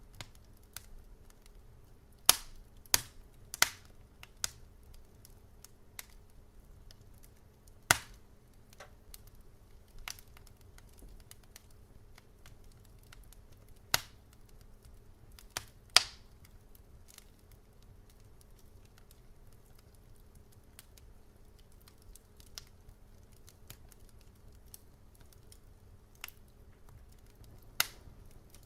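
Wood fire crackling: sharp, irregular pops and snaps from burning logs, scattered every second or few, over a faint low steady rumble.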